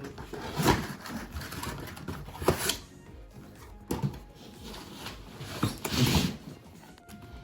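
Plastic toy pieces and packaging being handled: irregular knocks, clatters and rustles, with the largest around a second in, two and a half seconds in, and near six seconds.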